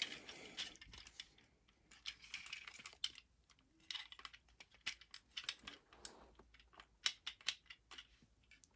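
Small plastic parts of an action figure clicking and ticking faintly as they are handled and plugged together: the upgrade kit's feet being fitted under a Transformers figure.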